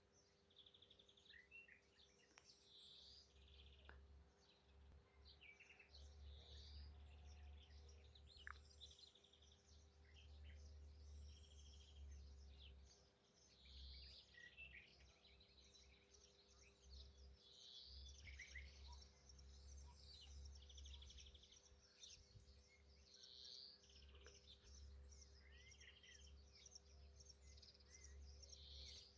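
Common nightingale singing: a steady run of varied phrases, whistles, chirps and rapid buzzy trills, with a low rumble coming and going underneath.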